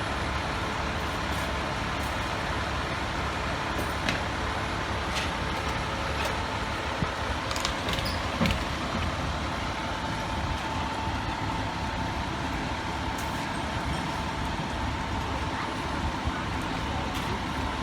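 A large vehicle's engine running steadily, with a constant high whine over it and a few faint clicks.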